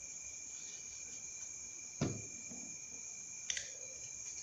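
Steady high trilling of crickets, with a dull thump about two seconds in and a sharper click about a second and a half later, as craft materials are handled.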